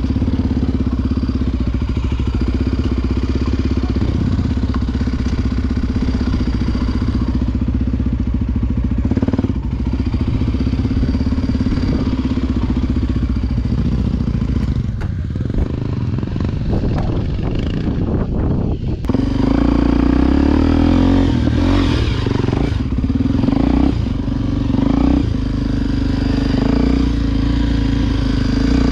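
Honda XR Tornado's single-cylinder four-stroke engine running as the enduro bike is ridden, holding a steady note. About halfway the note wavers and eases off, then comes back louder and steady for the last ten seconds.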